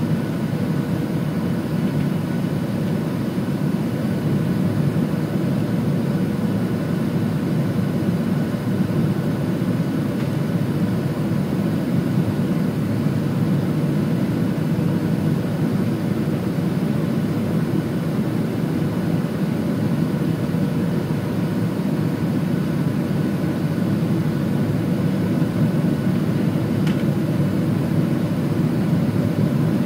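Cabin noise inside a Boeing 737-700 heard from a rear window seat: the steady drone of its CFM56 jet engines and airflow, with faint steady whine tones above the rumble, growing slightly louder near the end.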